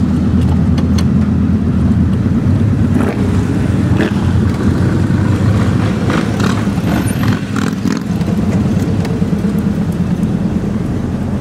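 1955 Chevrolet Bel Air's engine running steadily as the car drives along, heard from inside the cabin as a loud low rumble with road noise and light rattles.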